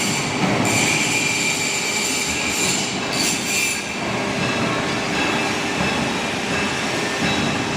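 W24S-series CNC hydraulic profile bending machine running, with a steel tube feeding through its rollers. High steel-on-steel squeals come and go over a steady hydraulic hum and grinding noise.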